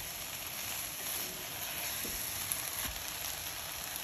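Diced chicken and vegetables sizzling steadily in an enamelled cast iron Staub cocotte as they are stirred with a spatula, with a couple of faint clicks about two and three seconds in.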